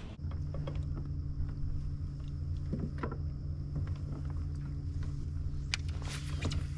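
A small motor on a fishing kayak hums steadily with a faint high whine as the boat moves along, and there are a few light clicks.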